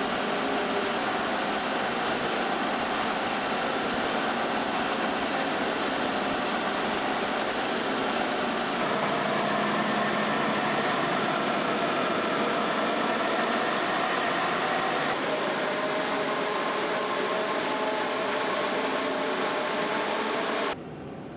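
Steady machinery noise of a truck assembly hall, with a faint hum of tones in it. It shifts slightly twice and drops sharply in level just before the end.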